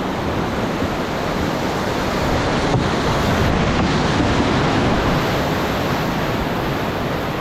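Rushing whitewater of a river rapid around a rowed raft, a loud steady roar of water.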